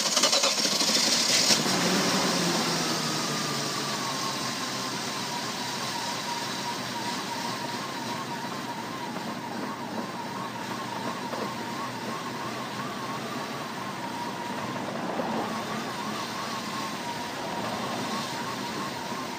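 BMW 740iL's V8 engine running, louder for the first two seconds and then settling to a steady idle with a faint wavering whine. The engine is starved of fuel by a failing fuel pump: fuel pressure reads only about 15 to 20, and it stalls if revved.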